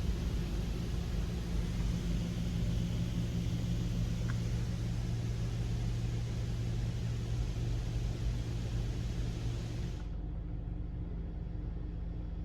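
Mark VII ChoiceWash XT soft-touch car wash machine running, a steady low hum under a loud hiss of spray or air. The hiss cuts off suddenly about ten seconds in, leaving the low hum.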